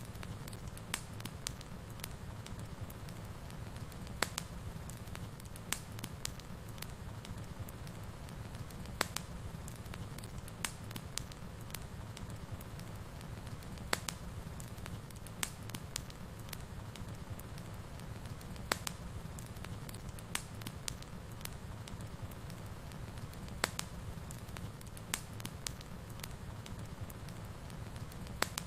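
Wood fire in a fireplace crackling, with sharp pops at irregular intervals, roughly one a second, over a steady low rumble of the flames.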